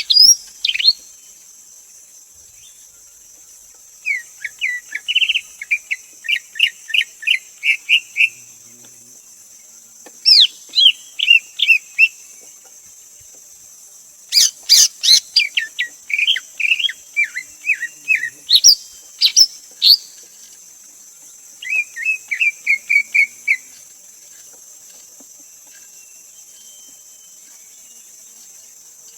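Greater green leafbird singing: rapid series of clear whistled and chirping notes in phrases of two to six seconds, five bouts with short pauses between. A steady high-pitched hiss of insects or background noise runs underneath.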